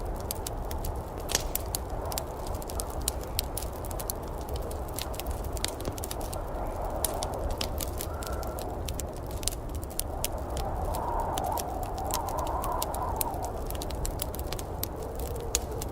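Wood fire crackling in a fireplace, with frequent sharp, irregular pops and snaps over a steady low rumbling background that swells slowly.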